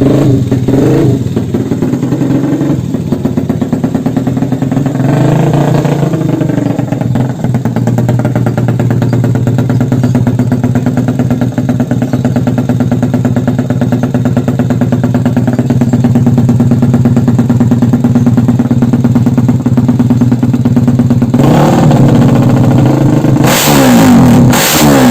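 Motorcycle engine running at a steady idle, lifting briefly about five seconds in, then revved harder and up and down near the end.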